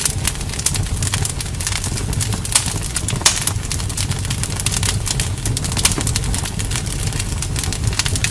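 Bonfire burning with a steady low rumble and dense, irregular crackling and popping of the wood, with a few louder pops.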